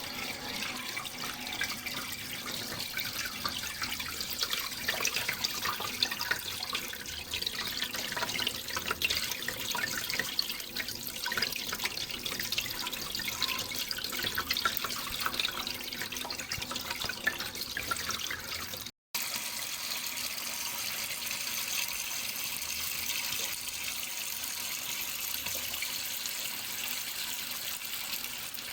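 Running water, a steady splashing trickle. About two-thirds of the way through it cuts out for a split second, then comes back smoother and more even.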